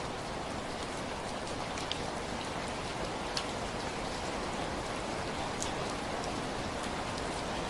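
Steady rain falling, an even hiss with scattered sharp drips of single drops striking a surface.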